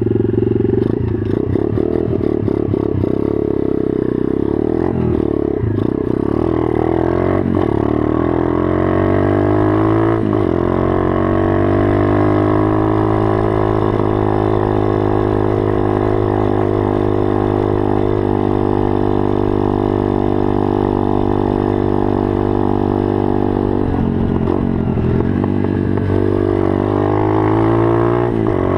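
Pit bike engine running, its pitch rising and falling with the throttle over the first ten seconds, then holding a steady note, and rising and falling again near the end.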